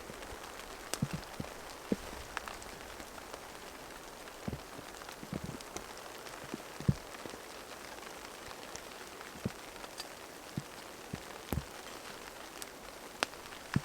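Light rain: a steady hiss with single heavier drops tapping at irregular intervals.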